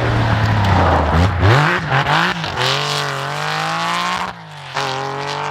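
Rally car engine at full throttle. It blips quickly up and down, then accelerates hard with its pitch climbing. About four and a half seconds in the note drops out briefly for an upshift, then climbs again.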